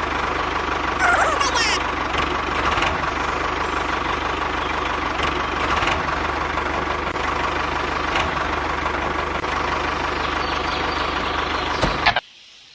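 Small motor running steadily with a constant hum and whine, cutting off abruptly near the end.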